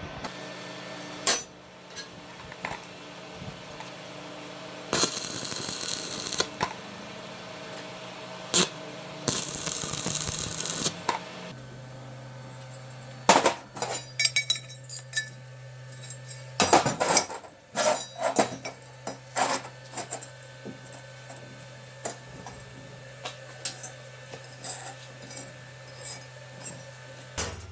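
Metal parts and hand tools clinking and knocking on a workbench, with two bursts of hissing noise about five and nine seconds in, over a steady low hum.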